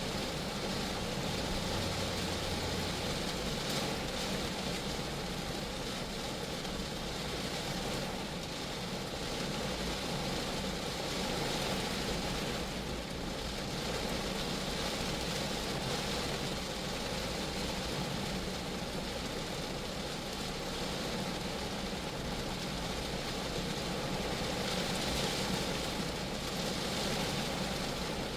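Steady rain falling on a Geo Metro car, an even, unbroken hiss of drops on the car body that neither builds nor fades.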